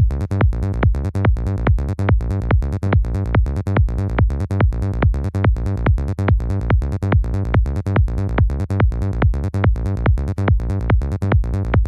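Psytrance track playing: a steady four-on-the-floor kick drum at about two and a half beats a second, with a rolling bassline filling the gaps between kicks and the top end mostly stripped away.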